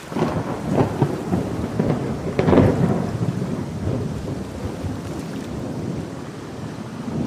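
Thunder over heavy rain: it breaks in suddenly with crackling, is loudest about two and a half seconds in, then rolls on as a low rumble that slowly fades.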